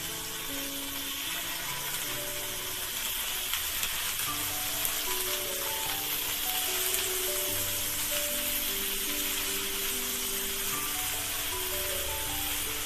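Steady sizzle of paneer cubes shallow-frying in hot oil in a pan, with a soft melody of background music over it.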